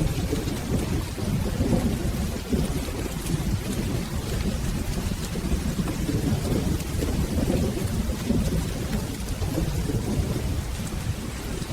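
Steady rain with a low, continuous rumble of rolling thunder beneath it.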